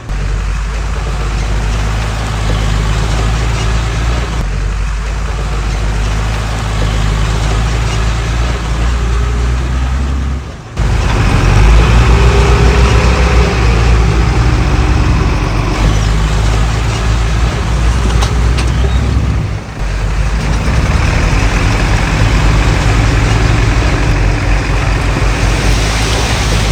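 Heavy diesel engine of earthmoving machinery running steadily, with two brief sudden dips about ten and twenty seconds in.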